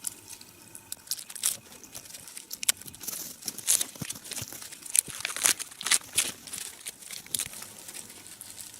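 Dry, loose outer birch bark being pulled off the trunk by hand and gathered up: irregular papery crackling and tearing.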